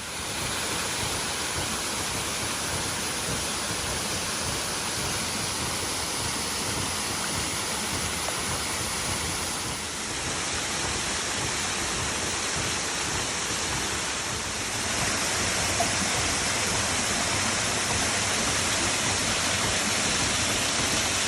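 Waterfall rushing, a steady dense roar of falling water that grows a little louder about 15 seconds in.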